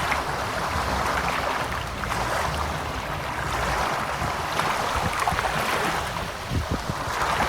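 Ocean waves washing in, a continuous surging roar that swells and eases every couple of seconds, with low rumble and crackling fizz of breaking water.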